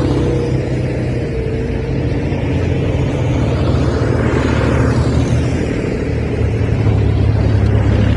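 Tractor engine running steadily at a low, even note, with a swell of road or passing-machine noise about halfway through.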